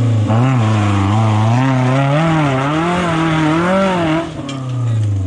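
Maruti Suzuki Gypsy's four-cylinder petrol engine revving hard under load in thick mud, its pitch swinging up and down over and over. It drops away about four seconds in, then rises briefly again near the end.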